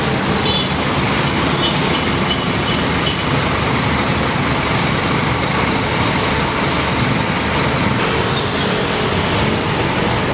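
Scania K410iB double-decker bus on the move: a steady, continuous mix of engine and road noise.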